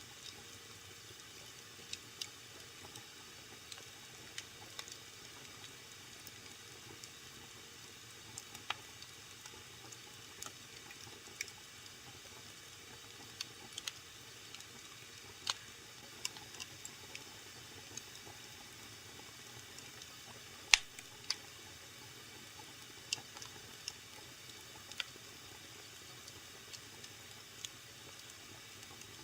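Wood fire burning in a fireplace, crackling: scattered sharp pops and snaps at irregular intervals over a faint steady hiss, with one much louder pop about two-thirds of the way through.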